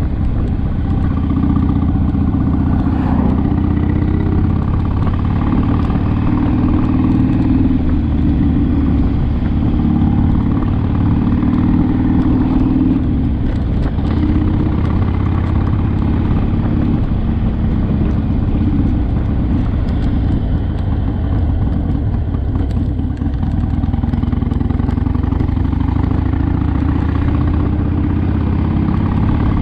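Harley-Davidson Sportster's V-twin engine running on the road, its pitch shifting as the bike speeds up and slows down, with a steady rise in pitch late on.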